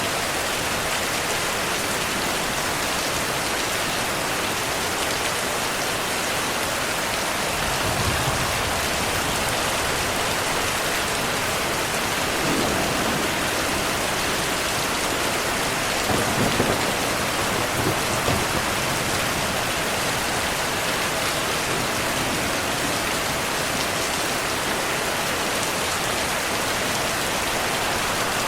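Heavy rain falling steadily, with soft low rumbles of thunder about eight seconds in and again a little past halfway.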